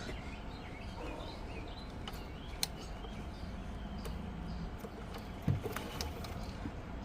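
Birds chirping in the background over a low steady rumble, with a few sharp clicks.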